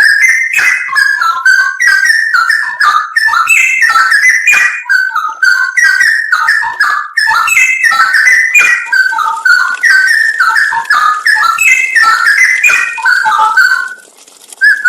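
Straw-headed bulbul (cucak rowo) singing a fast, unbroken run of loud liquid whistled notes that jump up and down in pitch, breaking off briefly near the end and starting again.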